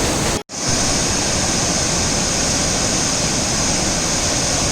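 Loud, steady roar of fast river water rushing through rocks, cut by a brief dropout about half a second in.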